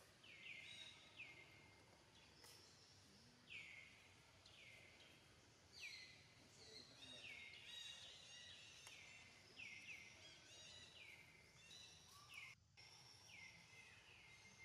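Faint, repeated short bird chirps, each dropping in pitch, often in quick pairs, over a low hiss of outdoor background; the sound cuts out for an instant near the end.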